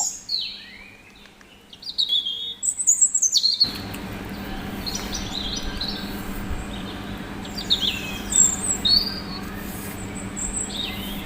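Small birds chirping in short repeated calls. About four seconds in, a steady low hum with a background hiss starts and runs on under the chirps.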